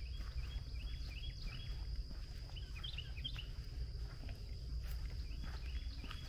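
Small songbird calling: a run of short chirps in the first second and a half, then another quick cluster about three seconds in. A steady high insect drone runs underneath.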